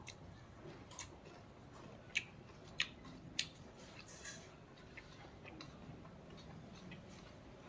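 Close-miked eating sounds: soft chewing of raw leaves and rice, with a few sharp clicks, the loudest three coming about two, three and three and a half seconds in.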